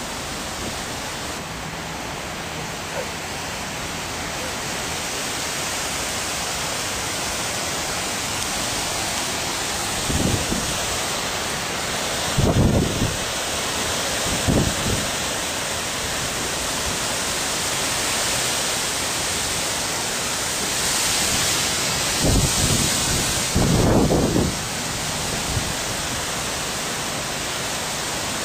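Strong gust-front winds of a thunderstorm blowing as a steady loud rush, with several gusts buffeting the microphone in short low rumbles, the strongest about halfway and near the end.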